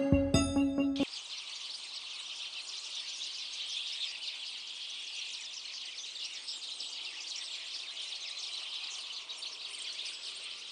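Piano music cuts off about a second in, and a Eurasian skylark sings: a continuous, rapid, high-pitched stream of twittering warbles.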